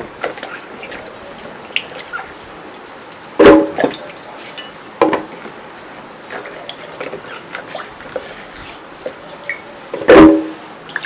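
Peppers being washed by hand in a bowl of water: splashing and dripping with small knocks, and two louder splashes, one about three and a half seconds in and one near the end.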